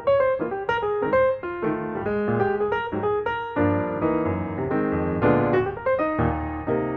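Background piano music, a melody of quick notes over a steady accompaniment.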